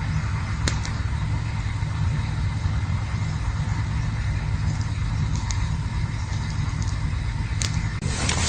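Campfire burning with a steady low rumble and a few sharp crackles, and a louder rush of noise near the end.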